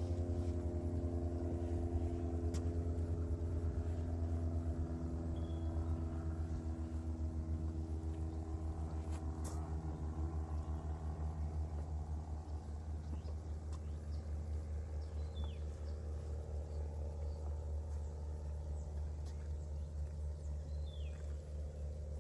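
A motor engine running at a steady idle, a low pulsing rumble that slowly grows fainter. Faint bird chirps come in now and then.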